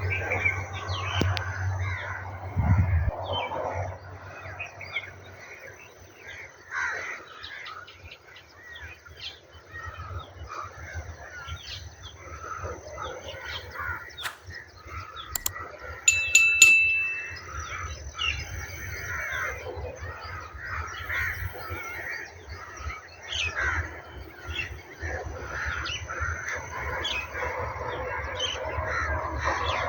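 Many birds chirping and calling, with crows cawing among them and a brief loud high-pitched call about halfway through, over a low rumble.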